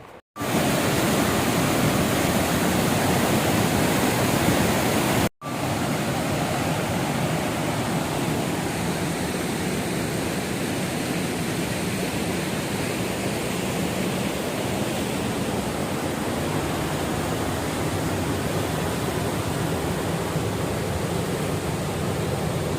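Waterfall: a steady rush of falling and splashing water, with no rhythm or pitch. It cuts out for an instant twice, near the start and about five seconds in, and is a little quieter after the second break.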